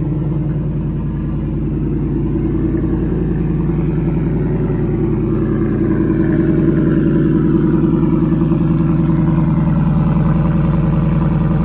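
Ford Coyote 5.0 V8 idling steadily just after a cold start, getting slightly louder about six seconds in.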